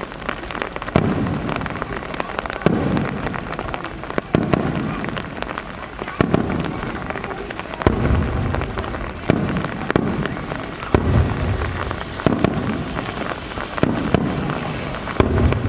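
Aerial firework shells bursting one after another, roughly every second and a half, each boom trailing off in a low rumble, over a steady hiss of falling rain.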